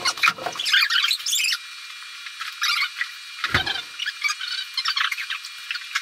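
A small bird loose indoors chirping rapidly over and over in short high calls. There is one dull thump about three and a half seconds in.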